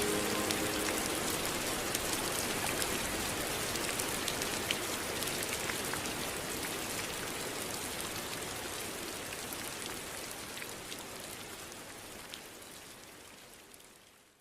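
Steady rain falling, with many small scattered drop ticks, slowly getting fainter and dying away to nothing near the end.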